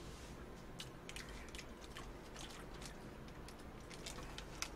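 Faint chewing and wet mouth clicks of a man eating a hamburger, with scattered short clicks and a louder click near the end as he bites into the burger.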